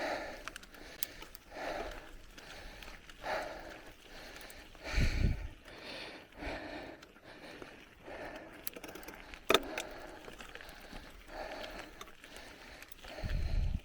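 Bicycle riding along a forest trail: tyre and frame noise with soft swells about every second and a half, a sharp click about two-thirds in, and low wind buffets on the microphone twice.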